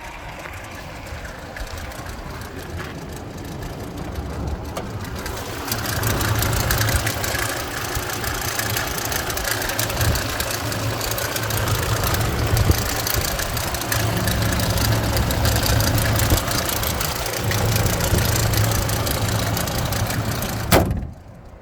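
Pickup truck engine idling steadily; it gets louder about five seconds in, and ends with a sharp click followed by a sudden drop in level.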